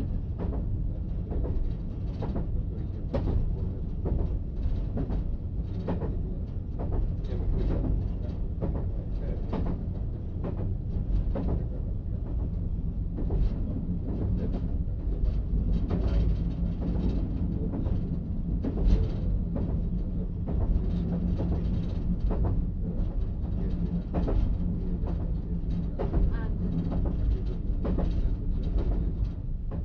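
Diesel multiple unit running along the track: a steady low rumble with irregular clicks and clatter of the wheels over the rails, and a steady engine hum through the middle stretch.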